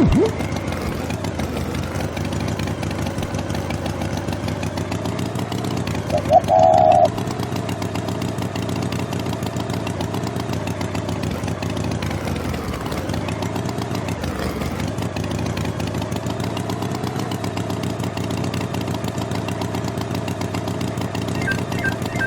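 An engine running steadily, its pitch wavering slightly. A brief, louder tone cuts in about six seconds in.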